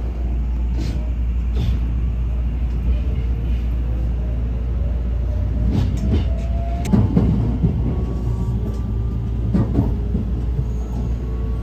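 Electric local commuter train heard from inside the carriage as it pulls away: a steady low rumble, a faint motor whine slowly rising in pitch as it speeds up, and a few sharp clacks of the wheels over rail joints and points.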